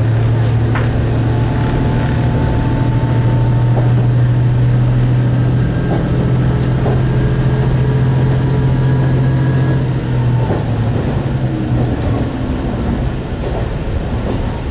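Single-car diesel railcar heard from inside the cabin while running between stations: a loud, steady low engine drone with wheel and track noise. The drone eases off about ten seconds in.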